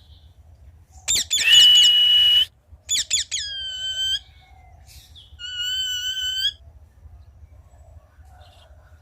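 Indian ringneck parakeet calling loudly. The first call, about a second in, opens with a quick run of falling notes and then holds a steady shrill note. Two more calls follow, each ending in a held, whistle-like lower tone, the last ending around six and a half seconds in.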